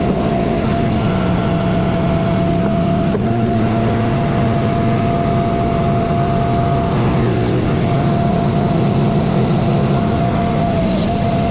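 A semi-truck's diesel engine runs steadily, with a steady high whine over it.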